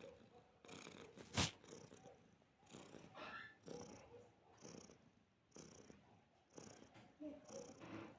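Domestic cat purring softly, the purr swelling and fading with each breath about once a second. A single sharp click sounds a little over a second in.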